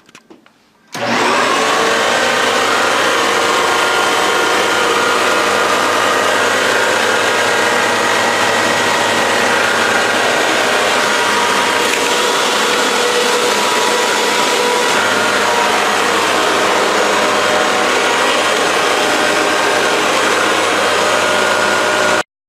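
Vacuum cleaner running steadily, a loud rushing noise with a motor whine. It switches on abruptly about a second in and cuts off just before the end.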